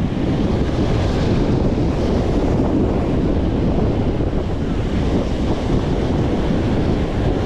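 Strong wind buffeting the microphone in a steady rumble, with surf washing on the shore beneath it.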